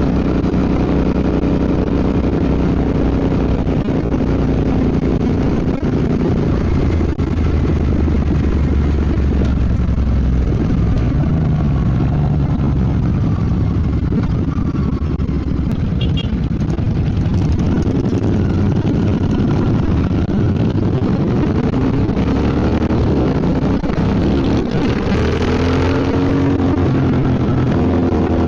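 Royal Enfield Bear 650's 648 cc parallel-twin engine running under way, its pitch rising and falling over and over as the bike accelerates and eases off, mostly in the second half.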